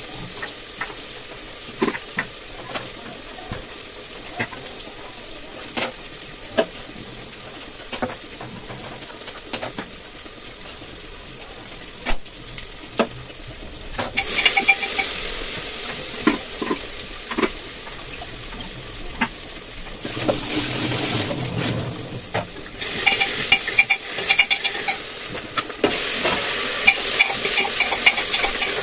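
Scattered light clinks and knocks of aluminium pans and utensils. From about halfway, food starts sizzling as it fries in hot oil in an aluminium pressure cooker, and it grows louder near the end as a metal spoon clinks and scrapes while stirring it.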